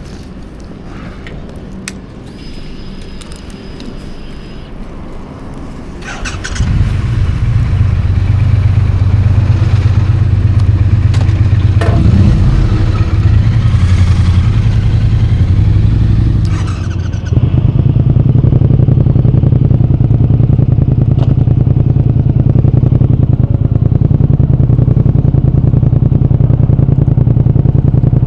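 Triumph Speed Twin 1200's parallel-twin engine starting up about six seconds in and then running steadily and loudly. Before it starts, a short high beep and a few clicks are heard.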